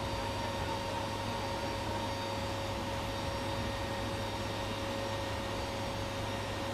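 Steady noise of a C-17 Globemaster III's jet engines and rushing air inside the cargo hold with the rear ramp open, an even hiss with a couple of steady whining tones in it.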